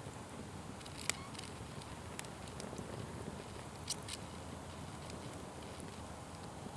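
Fire burning with a steady low rumble and crackling, broken by a few sharp pops, the loudest about a second in and another pair near four seconds.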